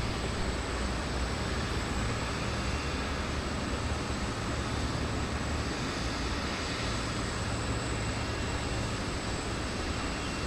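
Steady jet aircraft engine noise at an airport: a continuous rumble with a thin, steady high whine over it.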